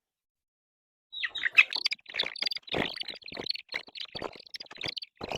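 Baby chicks peeping rapidly, mixed with many short knocks and scratches. The sound starts about a second in, after a brief total silence.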